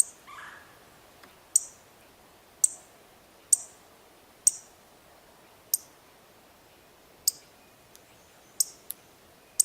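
Sharp, irregular clicks about once a second, with a pair close together near the end: a bird's beak pecking at dry cat food in a hard dish.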